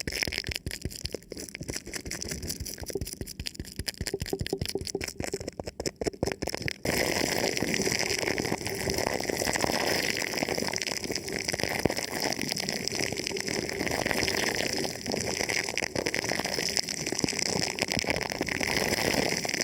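Thin plastic film wrapped over a microphone being rubbed and touched, making close crinkling and crackling. About seven seconds in it suddenly turns louder and denser, a steady crackle that continues.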